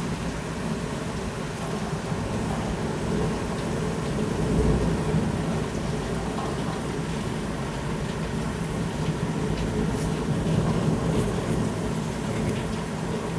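Heavy rain falling steadily under a long, low rumble of thunder that swells about four seconds in and again near the end.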